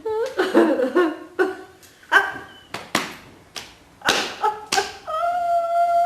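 Group laughter-yoga laughing: short bark-like bursts of laughter, then about five seconds in, one long steady held voice note.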